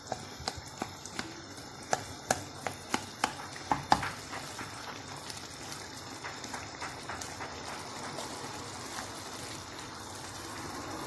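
Chicken mince, tomatoes and spices frying and bubbling in a pan: a steady fine sizzle, with a run of sharp irregular clicks and pops in the first four seconds.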